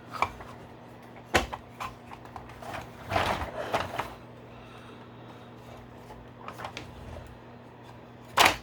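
Hard plastic toy parts handled and clipped together: a sharp click about a second and a half in, a cluster of rattling knocks a little past three seconds, and a loud snap near the end.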